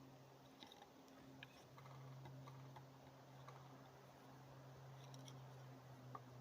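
Near silence with faint, scattered clicks and light wooden knocks as small dry boards are handled and laid crosswise into a well-shaped fire stack. A faint low hum runs underneath.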